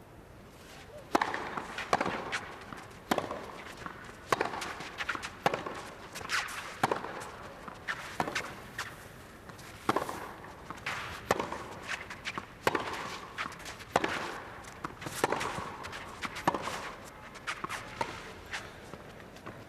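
A long tennis rally on a clay court: racket strikes on the ball about a second apart, around sixteen shots back and forth, with players' footsteps on the court between hits.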